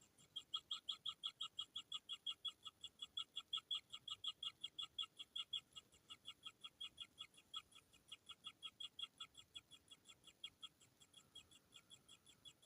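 Kingfisher nestlings giving a rapid train of short, high-pitched begging calls, about five a second, the hungry chicks calling for food. The calls are strongest in the first half and grow a little fainter after that.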